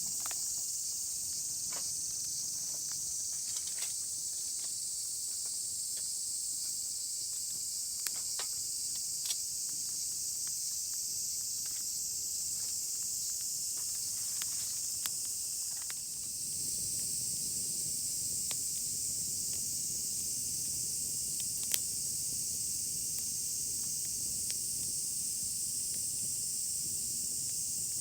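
Steady high-pitched insect chorus with scattered faint clicks. A bit past halfway the chorus changes pitch and a low rushing noise joins it.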